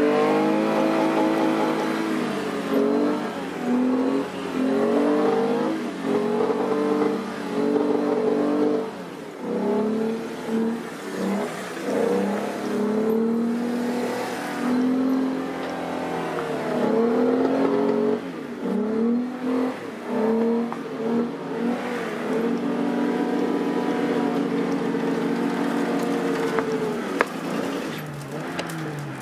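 Volkswagen VR6 engine revving hard and repeatedly during a burnout, its pitch rising and falling again and again before dropping off near the end.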